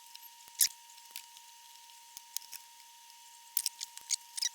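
Scattered small clicks and ticks of hands working with tools and parts at an electronics bench, the sharpest about two-thirds of a second in and a quick cluster near the end, over a faint steady high hum.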